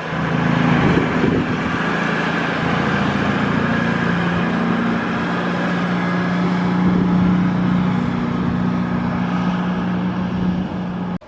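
Diesel train engine running steadily: a low drone with a constant hum under a wide hiss, which cuts off suddenly near the end.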